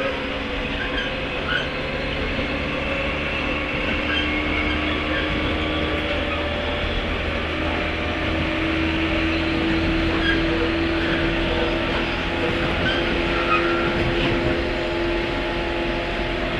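Running sound inside a 103 series electric train's motor car, with MT55 traction motors: steady wheel-and-rail rumble under a motor hum that settles a little higher in pitch about halfway through.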